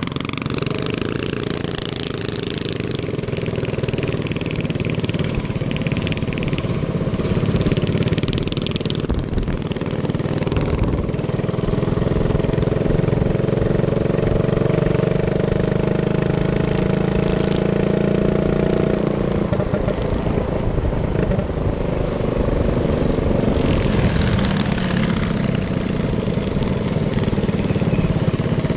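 Small minibike engine running under way, its pitch rising and falling with the throttle: it climbs about twelve seconds in, holds, then drops back. A rushing hiss rides over it at times.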